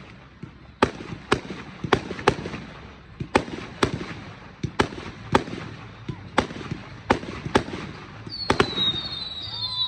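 Aerial fireworks display: a rapid, irregular string of sharp shell bursts, about fifteen bangs in ten seconds, with rumbling echo between them. Near the end a high, warbling whistle starts up.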